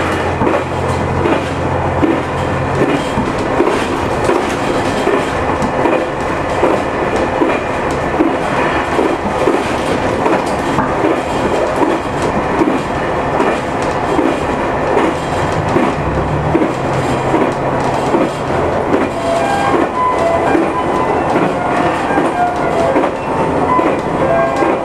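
JR Shikoku 2000 series diesel tilting train running at speed, heard from inside the passenger car: a continuous rumble and rhythmic clickety-clack of wheels over rail joints under the drone of the diesel engines. Short high tones come in near the end.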